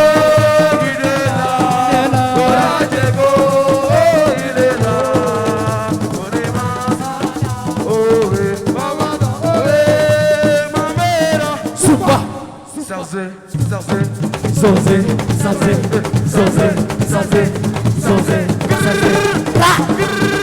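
Assiko band music: a lead voice singing over shakers and driving percussion. Around twelve seconds in the music nearly drops out for about a second and a half, then the percussion comes back in and the singing returns near the end.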